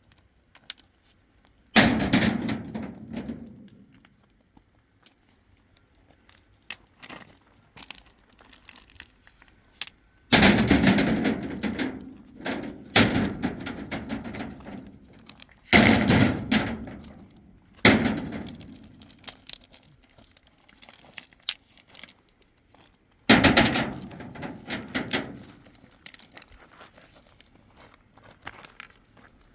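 Large stones being thrown down one after another, about six times, each landing with a loud crack followed by a short clatter that dies away.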